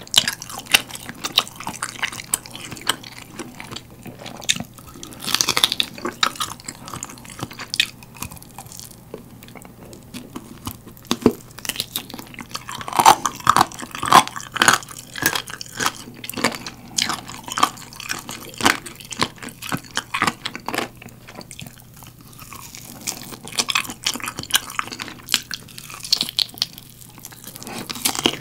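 Close-miked chewing and biting of sauce-glazed roasted chicken drumstick meat: irregular wet mouth clicks and smacks, with louder clusters of bites now and then.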